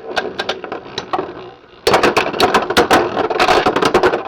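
Beyblade X spinning tops clashing in a plastic stadium: scattered sharp clicks, then about two seconds in a sudden, louder run of rapid clattering hits that lasts about two seconds.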